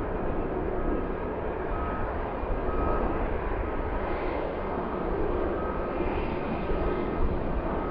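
Steady jet engine noise from an Airbus A319 airliner, its IAE V2500 turbofans running, mixed with low gusting rumble of strong wind on the microphone.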